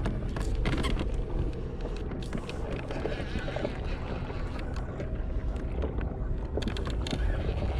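Wind buffeting the microphone on a fishing kayak at sea, a steady low rumble, with scattered small knocks and water sounds against the hull.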